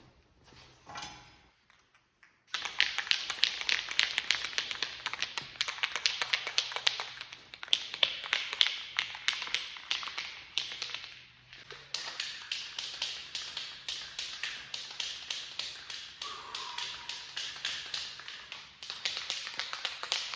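Aerosol spray-paint can being shaken, its mixing ball rattling in a fast, continuous run of clicks. The clicking starts about two and a half seconds in and pauses briefly about halfway through.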